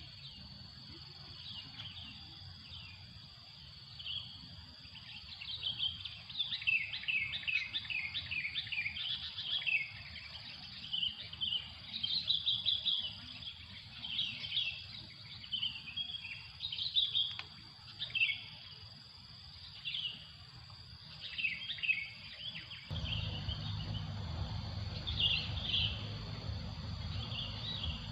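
Small songbirds chirping and calling in quick bunches over a steady, high insect drone. About 23 seconds in, a low rumble comes in underneath.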